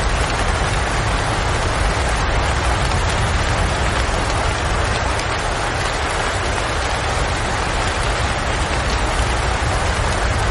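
Steady rain falling: a dense, even hiss with a low rumble underneath, unchanging throughout.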